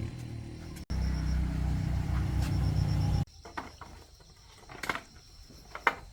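Single-cylinder 110cc motorbike engine running steadily, then cutting off abruptly about three seconds in; a few faint clicks and knocks follow.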